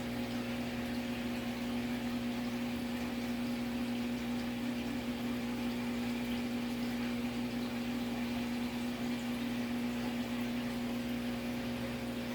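Saltwater aquarium pump humming steadily, with water circulating and bubbling through the tank.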